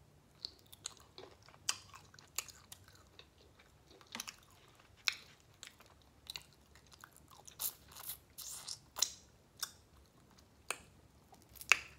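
Close-miked chewing and biting of steamed shrimp: irregular wet mouth clicks and smacks, with one sharper click near the end.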